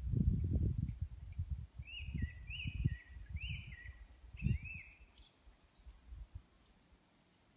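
A songbird singing a run of about five short whistled notes that arch up and down in pitch, each with a lower trailing note, then a brief higher phrase. Louder low rumbling noise on the microphone fades away after about five seconds.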